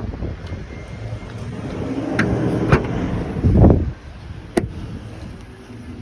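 Car rumbling low with a few sharp clicks, and a heavy thump about three and a half seconds in, after which it is quieter.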